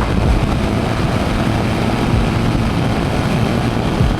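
BMW G310GS single-cylinder engine running steadily while riding, mixed with an even rush of wind and road noise.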